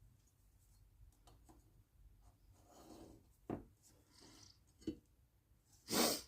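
Faint workbench handling of small wooden pieces: light clicks, a soft rub, two sharp knocks of wood, then a louder brief scrape near the end.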